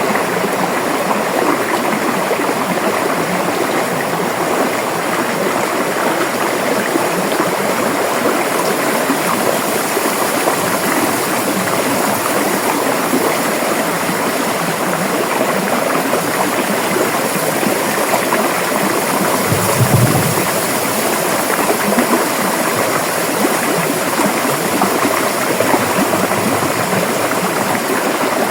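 River water flowing in a steady rush, with a brief low thump about two-thirds of the way through.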